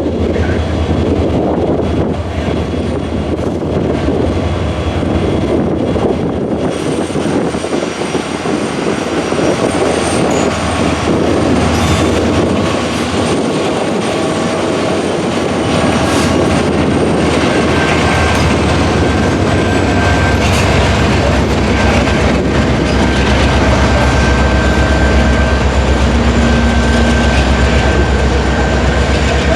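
A train rolling past close by: a steady loud rumble of wheels on rails, with thin high wheel squeals above it. The deep low rumble grows stronger in the second half.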